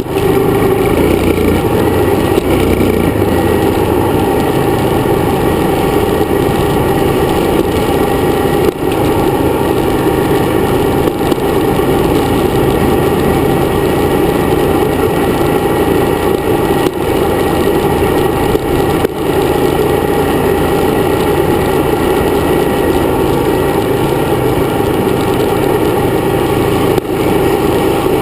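Dirt bike engine running steadily under way, with a few brief dips in level.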